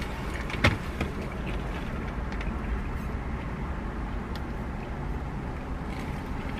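Steady low rumble of a car idling, heard inside the cabin, with a sharp click about two-thirds of a second in and a few faint rustles and ticks as a paper bag and ketchup packets are handled.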